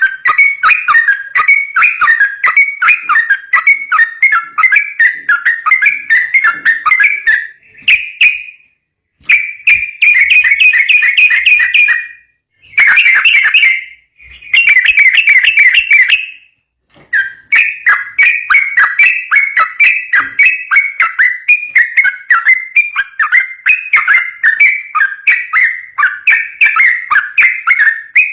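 Yellow-vented bulbul (trucuk) singing in fast, continuous chattering phrases of pitched notes, broken by a few short silences in the middle.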